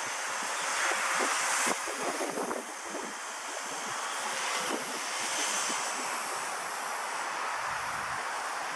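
Walkera V120D02 micro RC helicopter in flight: a steady high-pitched whine from its small electric motor over the rush of its rotor, with gusty wind noise that swells a couple of times.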